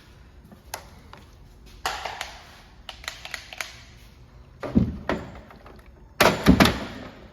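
Work-bench handling noises: a series of knocks and short clattering bursts, the loudest about two seconds in, near five seconds and about six and a half seconds in.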